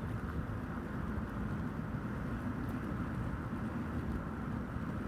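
Car driving, a steady low road and engine rumble with a faint even hum.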